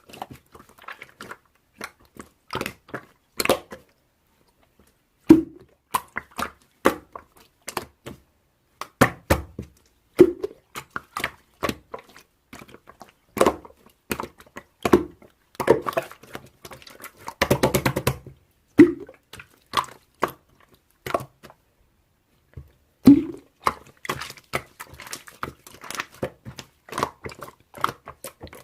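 Slime being squeezed, poked and stretched by hand: irregular sharp clicks and crackles with an occasional soft squelch, and a quick run of dense crackling about two-thirds of the way through.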